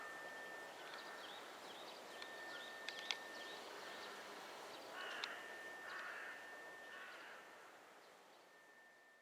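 Dawn birds: a crow cawing three times, about once a second, from about five seconds in, over small birds chirping and a steady hiss of outdoor background noise. A thin steady high tone comes and goes throughout, and the sound fades out near the end.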